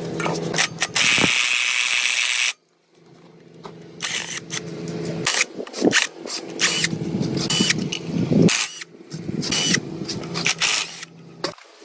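Workshop tool sounds: for the first couple of seconds a power tool runs with a loud hiss, then the sound cuts off suddenly. After that comes a low steady hum with many clicks and scrapes of parts being worked.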